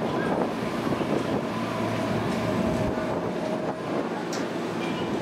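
Ex-JR East Series 205 electric commuter train running slowly past the platform: a steady rumble of wheels and running gear with a faint whine in the middle and a few light clicks.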